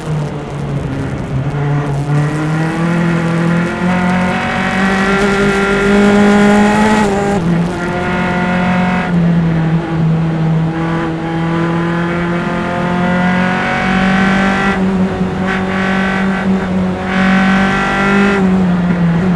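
Single-seater race car's engine heard onboard at close range, running hard at high revs. The pitch climbs and steps with gear changes, dropping sharply about seven seconds in and again near the end.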